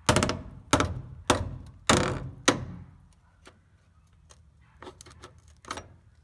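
A hammer striking the rust-rotted steel frame rail of a 1985 Toyota pickup: five hard blows about half a second apart, then lighter taps and clinks. The frame sounds hollow here because the rust has thinned it from inside.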